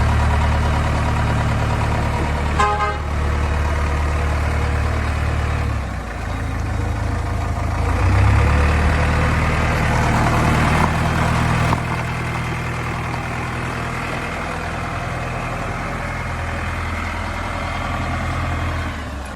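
Heavy diesel engine running steadily, its note shifting a little around six and twelve seconds in, with a short vehicle horn toot about three seconds in.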